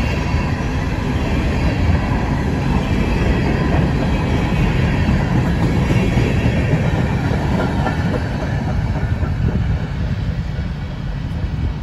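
Empty coal train cars rolling past on the track: a steady, loud rolling noise of steel wheels on rail. It eases off a little near the end as the cars move away.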